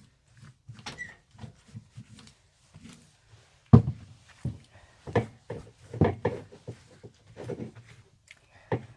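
Irregular knocks and clunks of metal engine parts and tools being handled on a workbench, the loudest about four seconds in.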